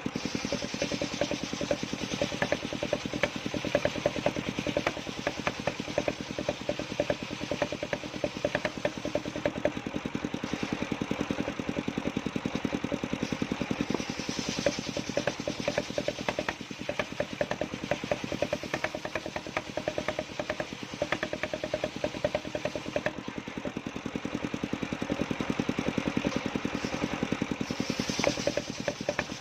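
Engine of a circular saw rig running steadily, with a rapid even firing beat.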